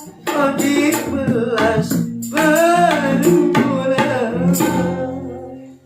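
A man singing a held, wavering closing phrase over hand-drum (gendang) strokes and sustained low accompaniment notes, the music fading out near the end.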